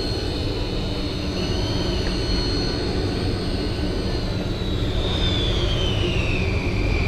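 Battery-powered electric fishing reel winding in a tuna, a thin motor whine that drops in pitch about two-thirds of the way through as the reel loads up. It sits over a steady low rumble from the boat.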